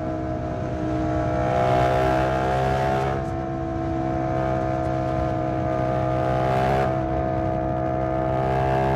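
Yamaha MT-07's 689 cc parallel-twin engine through an SC-Project exhaust, running at a steady cruise. The engine note rises a little about a second and a half in, then holds nearly level.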